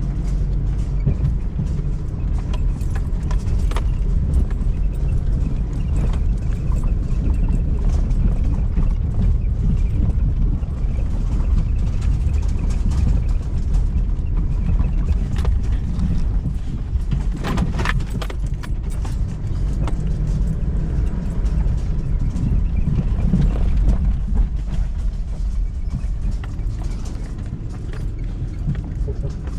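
Vehicle driving: a steady low rumble of engine and road noise, with a brief rattle or knock about eighteen seconds in.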